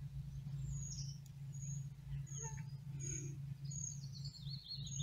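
Songbirds calling: a short high chirp repeated about every three-quarters of a second, then a run of notes falling in pitch near the end. Under them runs a steady low hum.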